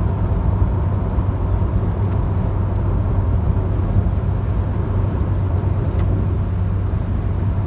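A 2004 Toyota Corolla being driven: a steady low hum of engine and road noise.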